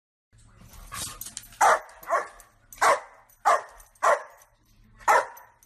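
A dog barking repeatedly: about six loud, short barks spaced roughly half a second to a second apart, starting after a moment of silence.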